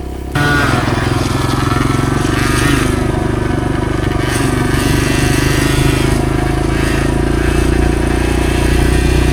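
Dirt bike engine running steadily on a trail, with slight rises and falls in pitch as the throttle changes. It starts abruptly about half a second in.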